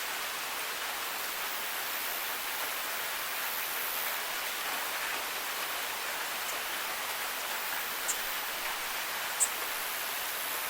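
Steady rain falling, an even hiss, with two sharp drip ticks near the end.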